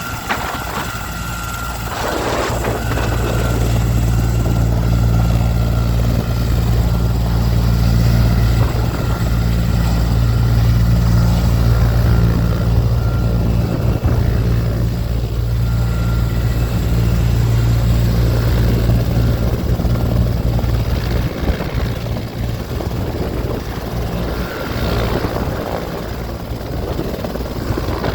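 Sikorsky S-64 Skycrane heavy-lift helicopter running: a loud, steady rotor beat with a high turbine whine over it. It swells over the first few seconds, holds, and eases somewhat after about twenty seconds.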